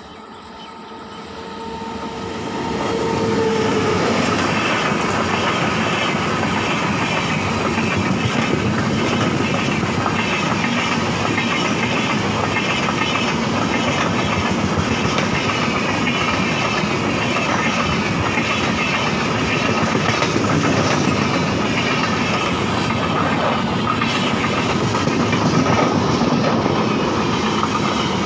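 Indian Railways express passenger train, hauled by a WAP-7 electric locomotive, passing at speed. The sound swells over the first few seconds, then holds as a loud, steady rush of coaches with a rhythmic clickety-clack of wheels over the rail joints. A steady tone sounds during the swell.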